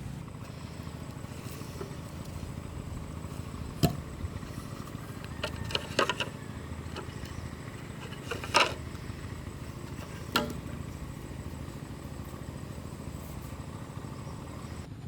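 Scattered sharp knocks of bamboo or wood being handled, a single one at a time or a short cluster, the loudest just past the middle, over a steady low hum.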